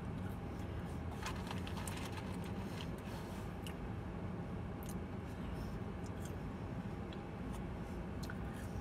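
Close-up chewing and eating sounds from French fries, faint scattered clicks and smacks, over a steady low hum inside a car.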